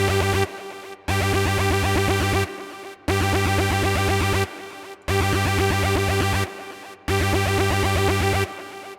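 Electronic music from a software synthesizer in a DAW: a fast-pulsing pattern with a strong bass line, looping every two seconds. Each pass drops quieter for its last half-second, then breaks off briefly before it repeats.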